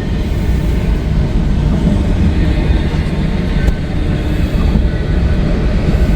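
CSX freight train cars rolling past, with a steady rumble of wheels on the rails.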